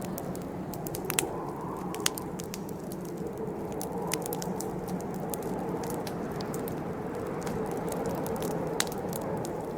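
Wood campfire crackling, with a steady low rush of burning flames and frequent sharp pops and snaps, a few of them louder.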